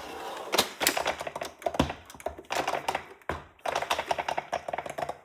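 Irregular plastic clicks, taps and knocks from a Shark robot vacuum being handled, its drive wheel being pushed, a wheel that stays lifted instead of dropping back down.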